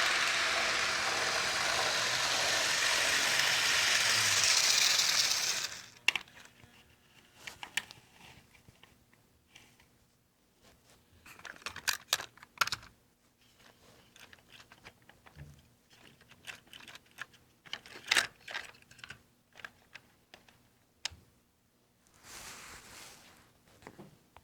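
HO scale model train running on the layout, a steady rushing noise that cuts off abruptly about six seconds in. Scattered light clicks and taps follow.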